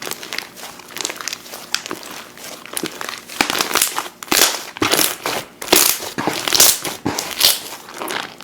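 Slime being squeezed and pressed by hand, making a dense run of small crackles and pops that gets louder and busier from about three and a half seconds in.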